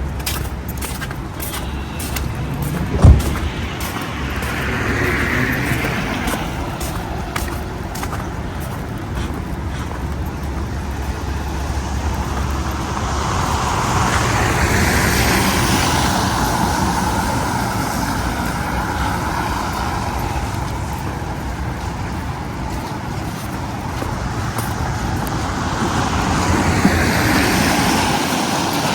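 Street traffic going by, with three vehicles swelling past and fading, and one sharp thump about three seconds in.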